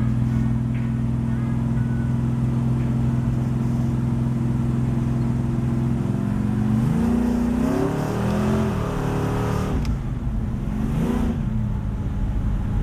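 406 cubic-inch small-block V8 in a 1982 Chevy S-10 pickup idling steadily. About seven seconds in it is revved, rising and falling, and it is blipped again once near the end.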